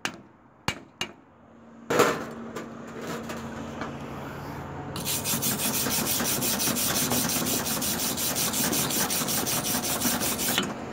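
Fast, regular scraping on a steel stick-weld bead to clear off the flux slag. It starts about two seconds in and turns much louder and harsher about five seconds in.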